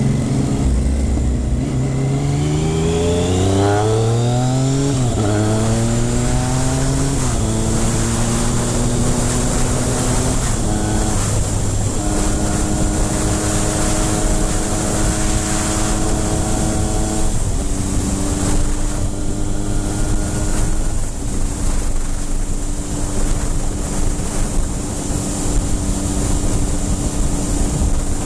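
Triumph Speed Triple 955i's inline three-cylinder engine pulling up through the gears, its pitch climbing and dropping back at each of about three upshifts, then holding a steady note at cruise with a couple of small drops. Wind rush on the microphone runs under it.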